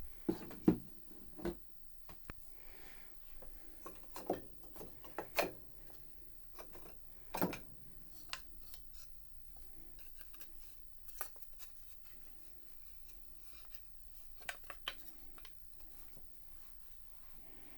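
Wooden spinet piano keys being handled and set down, making scattered clicks and light knocks. The loudest knocks come within the first second and around five and seven seconds in.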